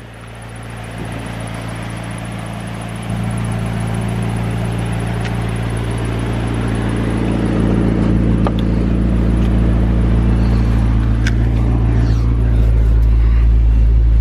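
McLaren 650S Spyder's 3.8-litre twin-turbo V8 idling, growing gradually louder with a step up a few seconds in. A few light clicks come near the end.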